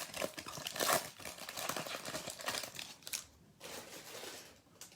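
Plastic wrapper of a Topps baseball card pack torn open and crinkled, with many small crackles for about three seconds, then quieter handling sounds.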